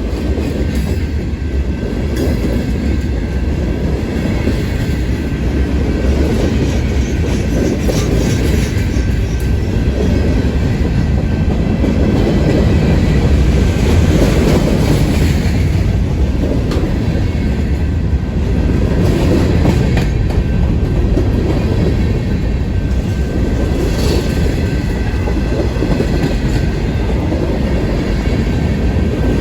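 Freight train cars rolling past, a steady low rumble with wheels clacking over the rail joints and an occasional sharp knock.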